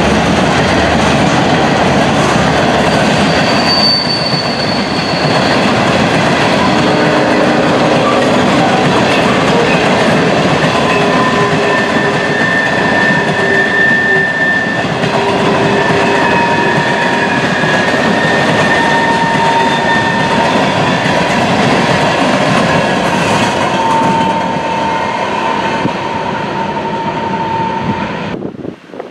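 Freight train cars rolling past close by, wheels clicking over the rails, with steady high-pitched wheel squeal through much of the pass. The sound cuts off suddenly near the end.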